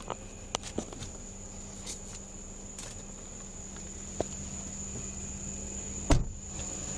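Steady high-pitched whine over a low hum, with a few light clicks early on and one sharp knock about six seconds in.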